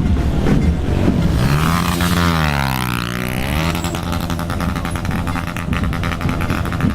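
Motor vehicle engine running in the street, its pitch dropping and rising again about two to three seconds in, over a steady wash of traffic noise.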